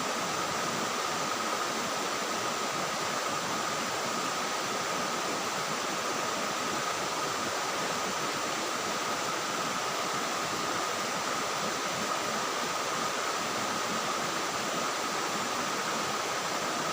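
Small waterfall and river running, a steady rush of water, with a thin steady insect drone held over it.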